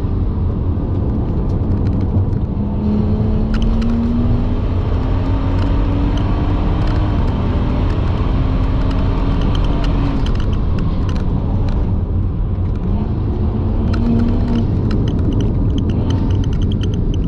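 In-cabin sound of a BMW 135i's N55 turbocharged straight-six pulling hard, its pitch rising and dropping back about four times as the dual-clutch gearbox shifts, over heavy road rumble. The tyres are scrubbing, which the driver puts down to running too big a wheel.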